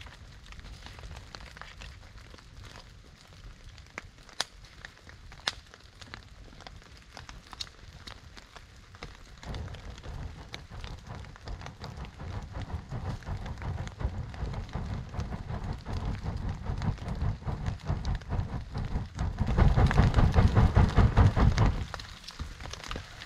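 Rain falling, with sharp crackles and pops from a wood fire. From about ten seconds in, a low rumbling noise builds up; it is loudest near the end, then cuts off suddenly.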